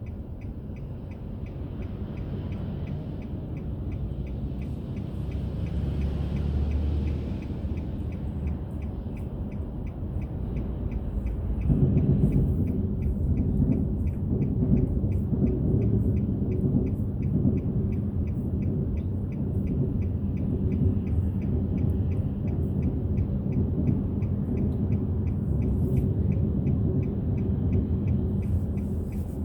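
Car driving on city roads, the engine and road rumble steady and then louder about twelve seconds in as the car picks up speed. A faint, evenly spaced ticking runs alongside.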